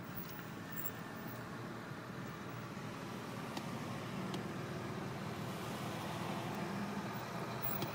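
Steady car noise heard from inside the cabin: a low engine and road hum with no distinct events, swelling slightly over the seconds.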